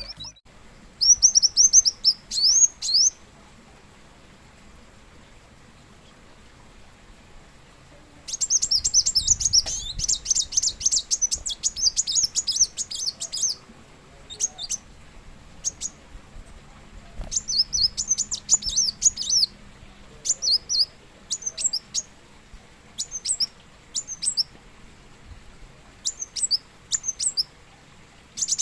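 A kolibri wulung (kolibri muncang), a small sunbird, singing in bursts of high, quick chirps and trills. There is a short phrase at the start, a pause of several seconds, then a long, dense run of song followed by scattered shorter phrases.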